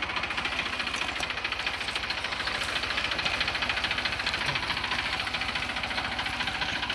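Deutz-Fahr tractor's diesel engine running steadily with a rapid, even chugging beat.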